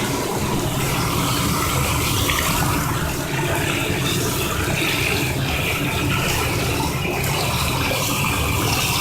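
Tap water running steadily, pouring and splashing into a bath.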